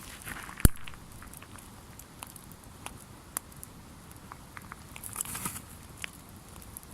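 Wood campfire crackling: scattered small ticks and pops, with one sharp loud pop less than a second in and a brief rustle about five seconds in.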